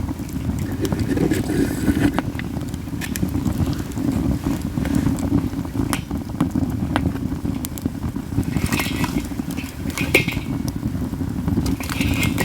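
Katsura-wood campfire crackling, with frequent sharp pops and a few hissing spurts a little past the middle, over a steady low rumble of wind on the microphone.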